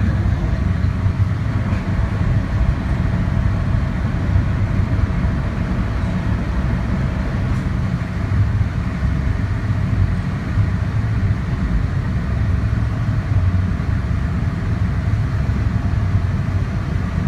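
Semi-submersible sightseeing boat's engine running steadily, a low drone heard from inside the hull.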